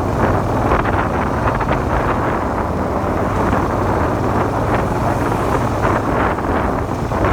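Suzuki SV400's V-twin engine running steadily under way, mixed with heavy wind buffeting on the microphone.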